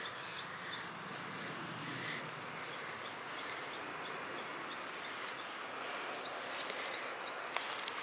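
Small songbird chirping in quick runs of short high notes, three times with pauses between, over a steady background hiss of insects. A few sharp clicks near the end.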